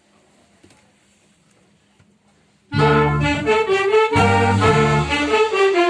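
Faint room tone, then a brass band comes in all at once about halfway through and plays loud, rhythmic music with low and high brass parts.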